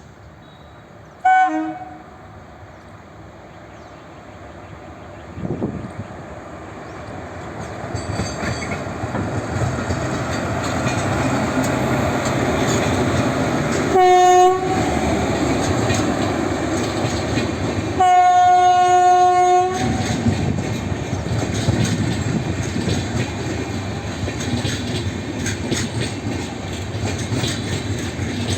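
Train approaching and passing: a rumble builds up and holds, with wheels clattering over the rail joints. The locomotive's two-tone horn sounds a short blast mid-way and a longer blast a few seconds later, with a brief loud tone about a second in.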